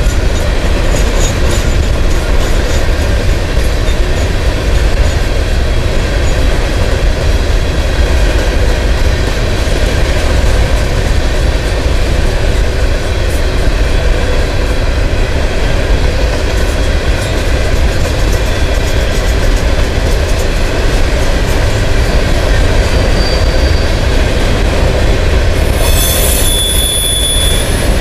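Loaded covered hopper cars of a grain train rolling past close by: a steady, loud rumble and clatter of steel wheels on the rails. A brief high-pitched squeal comes in near the end.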